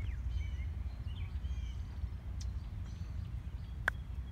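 Small birds chirping in short, quick calls over a steady low rumble, with one sharp click about four seconds in.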